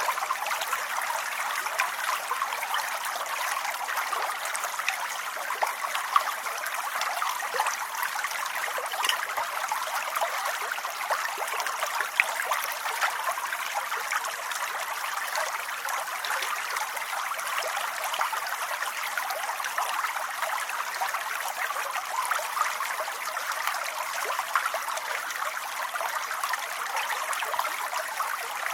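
Steady rain falling, an even hiss of countless small drops with the odd louder drop standing out.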